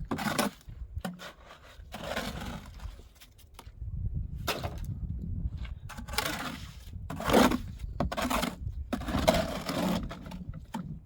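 Repeated scraping strokes, each up to about a second long, with short knocks between them.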